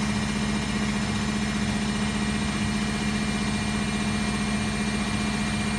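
Washing machine running with a steady hum, a faint pulse under it about twice a second.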